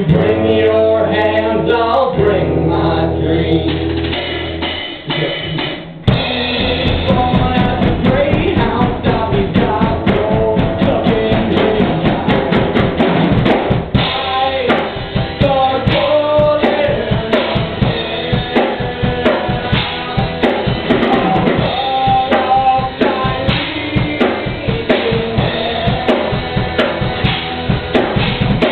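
A live band playing. For the first few seconds the instruments hold sustained chords. At about six seconds the drum kit comes in hard with a loud hit, and the full band plays on to a steady beat of bass drum, snare and rimshots.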